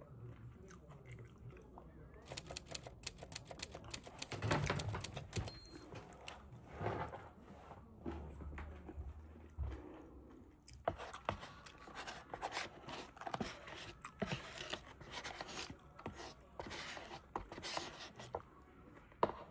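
A person eating: chewing and crunching food, with a quick run of sharp clicks about two seconds in and scattered clicks and scrapes after it.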